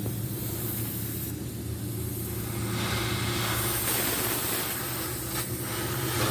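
Mitsubishi Canter truck's diesel engine running at a steady idle through an aftermarket 'wolf sound' exhaust, a low drone with a hiss above it that gets stronger about halfway through.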